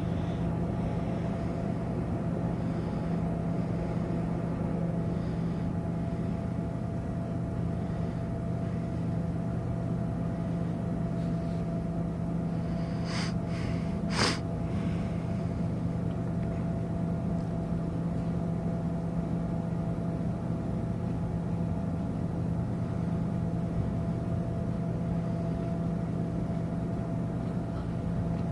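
Steady low drone of a cruise ship's engines and machinery during docking, an even hum with a faint higher tone above it. Two brief high-pitched sounds cut through about halfway through.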